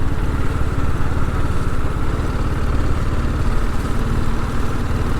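TVS Apache RR 310's single-cylinder engine running steadily at low revs, an even, rapid pulsing putter with no change in pace.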